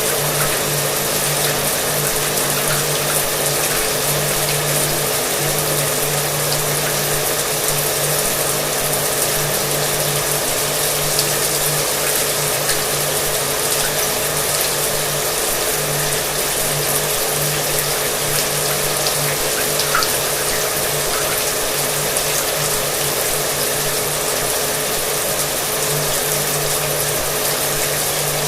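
Shower water running with a hair dryer running underneath: an even spray hiss over a steady motor hum.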